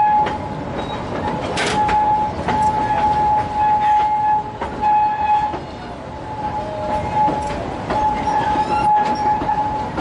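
Narrow-gauge children's railway train running through a curve, its wheels squealing with a steady high whine that drops out and returns several times. Under it the carriage rattles and rumbles, with clicks from the wheels over rail joints.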